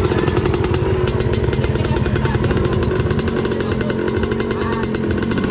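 Motocross dirt bike engines running with a steady buzzing note and rapid, even firing pulses.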